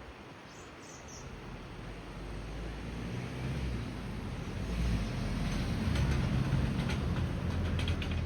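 Low mechanical rumble of a passing vehicle, swelling over several seconds with a rattling clatter at its loudest. A bird gives a few short high chirps about a second in.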